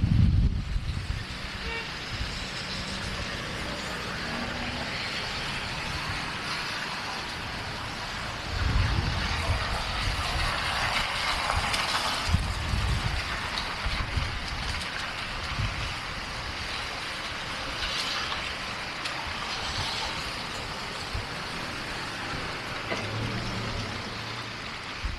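City street ambience: a steady wash of passing road traffic, with low rumbling gusts of wind buffeting the microphone a few times.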